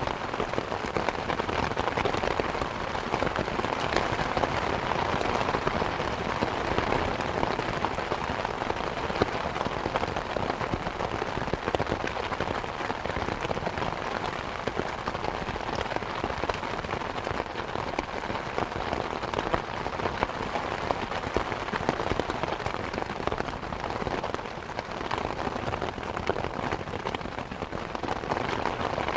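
Steady rain falling, a dense patter of drops on surfaces with no let-up.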